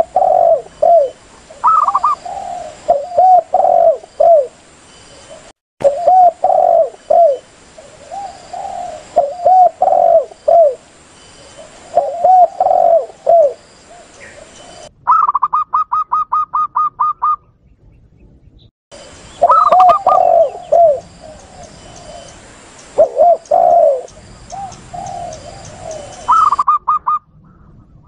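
Spotted doves cooing in repeated phrases, with runs of quick, higher staccato coos typical of a zebra dove near the middle and at the end. The recordings are spliced together, with short breaks at the joins.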